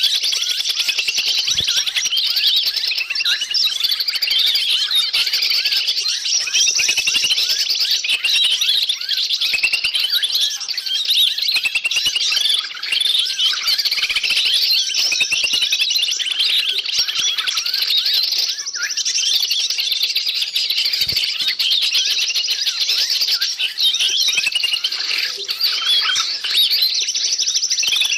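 Dense, unbroken chorus of many small birds' rapid high chirps, trills and agitated scolding calls. It is a noisy bird-lure (pikat) recording meant to draw wild forest birds in.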